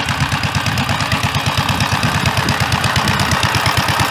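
Gravely Model L tractor's single-cylinder engine idling through a custom 'popper' exhaust, giving a rapid, even train of exhaust pops like a John Deere 'Johnny Popper'.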